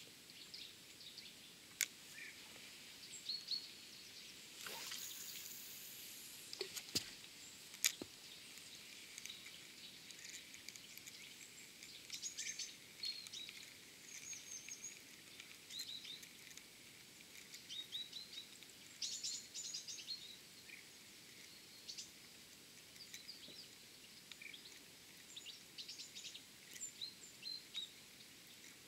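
Small birds chirping and calling in short high notes throughout, over faint steady outdoor background noise. A few sharp clicks sound about 2, 7 and 8 seconds in, with a brief rustle around 5 seconds.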